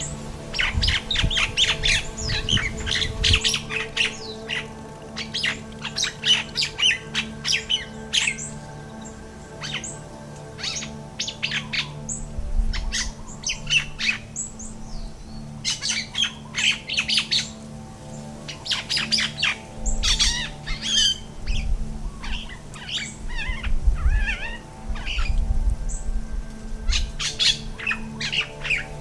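Common mynahs calling: a busy run of harsh squawks, chirps and whistles in quick bursts with short pauses, with low gusts of wind on the microphone now and then.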